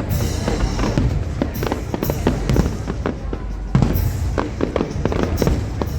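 Fireworks going off in quick succession: many sharp bangs and crackles over a continuous low rumble of aerial shells bursting.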